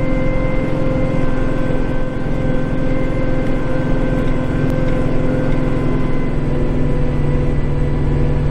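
Kubota compact tractor's diesel engine running steadily under load while driving a snowblower, heard from inside the cab as a loud, even drone with a held hum.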